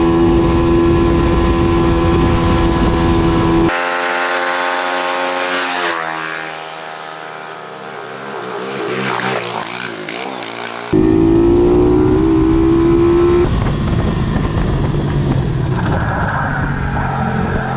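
A 125cc pit bike engine running and revving in a series of short clips that cut abruptly from one to the next. The engine note falls away a few seconds in and climbs again after a cut.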